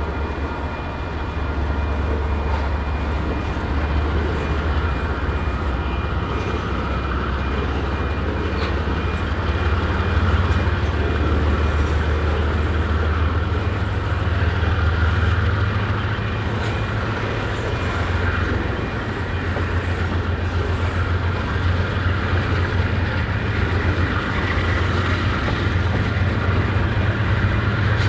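Canadian Pacific freight train rolling slowly past: a continuous rumble of cars on the rails over a low, steady drone.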